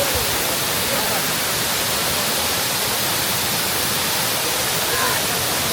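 El Limón waterfall: water falling into its pool in a steady, loud, unbroken rush, with faint distant voices under it.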